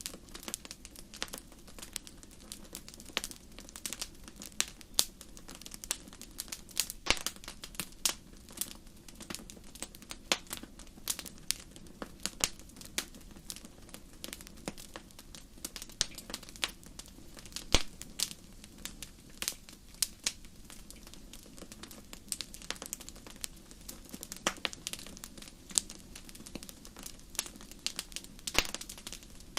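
Wood fire crackling in a fireplace: frequent irregular sharp pops and snaps over a soft steady hiss of burning.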